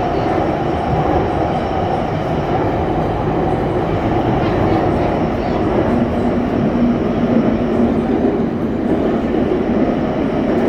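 Shenzhen Metro Line 3 train running steadily, a continuous rumble of wheels and running gear heard from inside the car. A low steady motor tone comes in a little past halfway.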